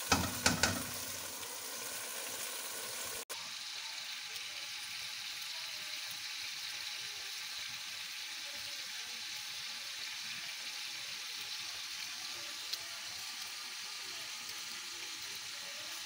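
Onions frying in oil in a cooking pot, a steady sizzle. A few sharp metal clinks of the spoon against the pot in the first second.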